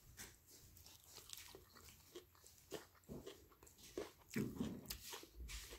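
Faint chewing of a forkful of sautéed greens and onion, with small scattered mouth clicks that grow more frequent in the second half.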